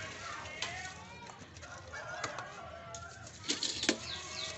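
Short falling chirps of a small bird, several in a quick run near the end, with sharp clinks of a metal spoon against steel dishes and faint voices behind.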